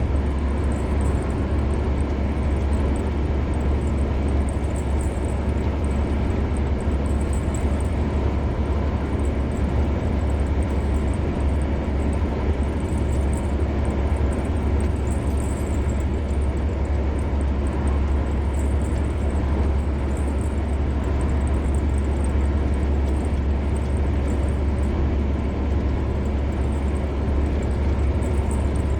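A car driving at a steady speed on a highway: a constant low hum of engine and road noise with tyre rumble, unchanging in level.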